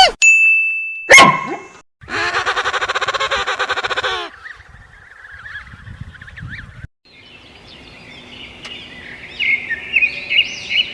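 A string of short animal sound clips: a brief steady whistle-like tone and a click, then a rapidly pulsing call for about two seconds, then faint chirps, and bird chirping through the last few seconds.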